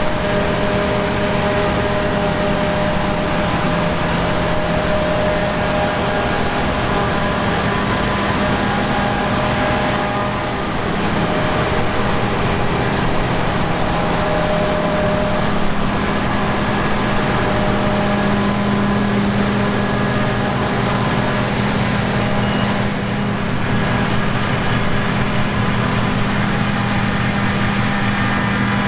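Heavy diesel farm machinery running steadily during grain harvesting, a constant engine drone with several steady whining tones over it.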